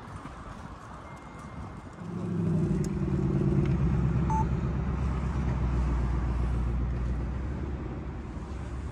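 A car's engine pulls hard about two seconds in as the car accelerates away, then carries on as a low rumble that slowly fades.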